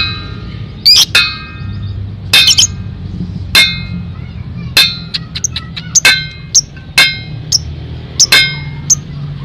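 Lovebird calling: a series of sharp, high, squeaky chirps, about one to two a second and some in quick pairs. It is played as a lure sound (pancingan) to set other lovebirds chattering (ngekek).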